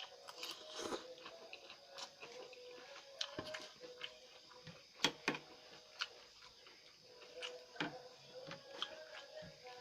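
Quiet close-up eating: chewing noodles and rice, with irregular wet mouth clicks and smacks and a few sharper taps, the loudest about five seconds in.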